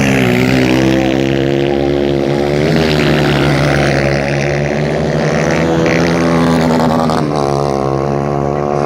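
150cc racing motorcycle engines running hard, a steady drone whose pitch sweeps up and settles about three seconds in and again near seven seconds.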